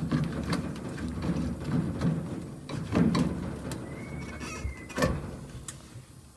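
Clunks and knocks of a washing machine's motor and drive coupling being handled and pulled apart, with a brief high squeak about four seconds in. The coupling's cog is broken, which is why the drum won't spin.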